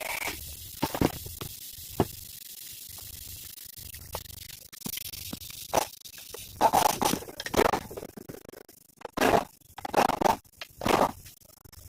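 Rough scraping and grinding in irregular bursts, louder and more frequent in the second half, over a faint low steady hum: the grinding noise from a vehicle's transmission.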